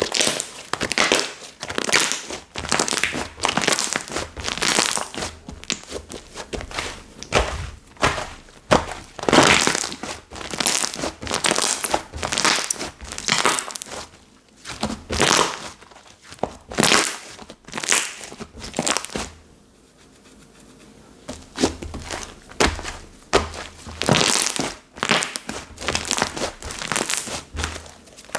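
Soft slime being squished, pressed and stretched by hand: a run of sticky, crackly presses about one or two a second, with a short pause around twenty seconds in.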